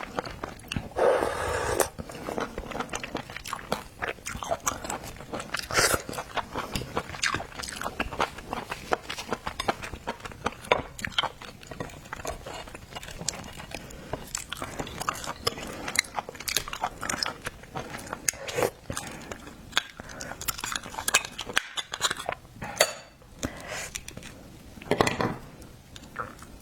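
Close-miked eating of seafood: continuous chewing, biting and wet mouth clicks, with a few louder crunches and occasional clinks of dishes or cutlery.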